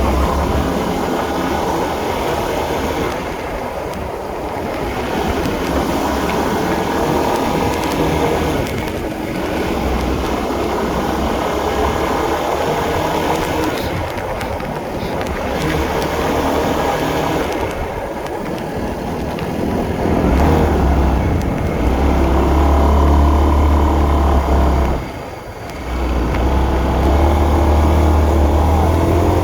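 Honda CB150R's single-cylinder engine running under way, its pitch rising and falling with the throttle, over a low wind rumble on the microphone. About 25 seconds in the sound drops briefly, then picks up again.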